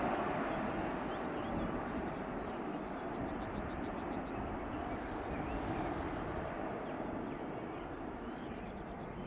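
Jet engine noise of a Ryanair Boeing 737-800 after landing, a steady rumble slowly fading away. A small bird gives a quick, rapid trill about three seconds in.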